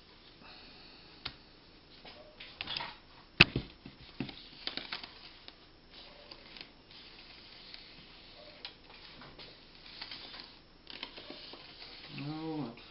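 Small clicks, taps and rustles of hands handling glass and wood pieces on a table, with one sharp click about three and a half seconds in.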